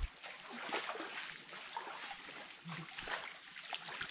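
Water of a shallow stream trickling and splashing, with many small, irregular splashes.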